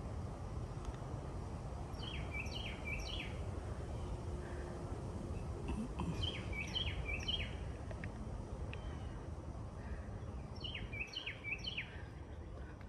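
A songbird singing the same short phrase of quick, slurred high notes three times, about every four seconds, over a steady low rumble.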